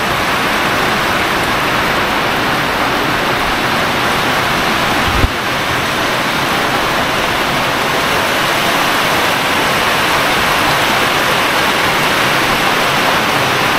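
Heavy rain pouring down steadily, falling on the metal carport roof overhead. A brief low thump about five seconds in.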